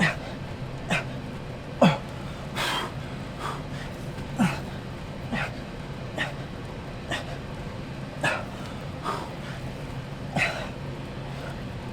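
A man exhaling hard, with a short grunt on each push-up, roughly once a second, as he pushes through a long timed set. A faint low steady hum runs underneath.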